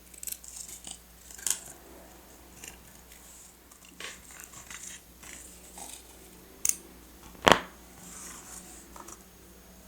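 Scissors snipping and paper being handled: a scattering of small clicks and rustles, with one sharper, louder click about three-quarters of the way through.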